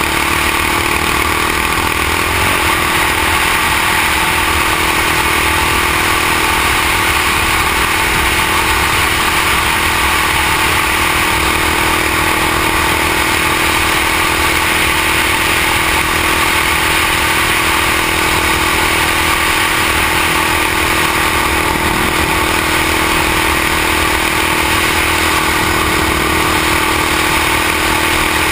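Honda XR650L single-cylinder four-stroke engine of a street-legal three-wheeler under way on the road, rising in pitch as it accelerates for the first couple of seconds, then running at a steady cruise. Steady wind and road noise run underneath.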